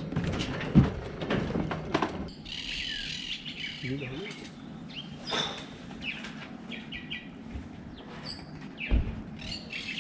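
A songbird singing, a run of quick repeated chirping phrases that starts about two seconds in and goes on. A few sharp knocks come in the first two seconds, the loudest just under a second in.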